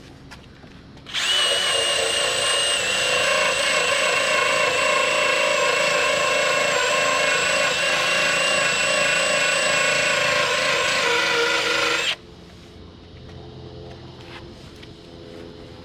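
Power drill spinning a rubber decal-remover wheel against truck paint to rub off old adhesive-strip residue. It starts about a second in, runs steadily with a high whine for about eleven seconds, then stops.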